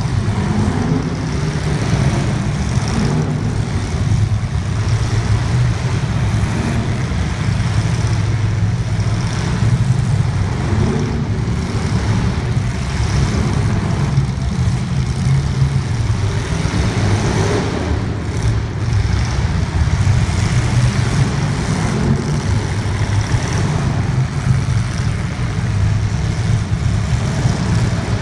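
Racing engines running in a continuous, steady drone.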